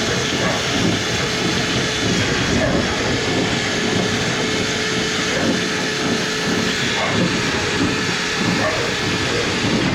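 Steady rush of air with a constant motor hum from powered dryer-vent cleaning equipment, cutting off suddenly at the end.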